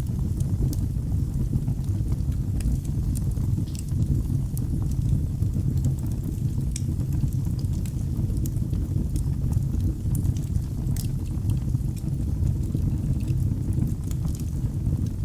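Wood fire burning in a fireplace: a steady low rumble of the flames with frequent small, sharp crackles and pops scattered irregularly.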